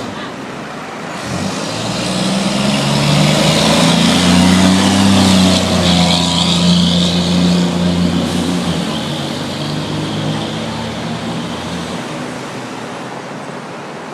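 Diesel engine of an FDNY fire truck pulling away close by. It grows louder to a peak about four to six seconds in, then fades as the truck moves off, over street traffic noise.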